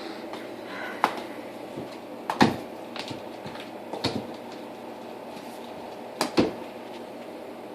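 Cats jumping and flipping after a teaser toy, with several dull thumps of paws and bodies landing on the floor, the loudest about two and a half and six seconds in, over a steady background hum.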